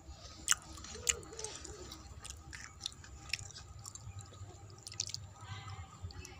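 Close-up mouth sounds of a person chewing food: wet chewing with sharp clicks and smacks about once a second.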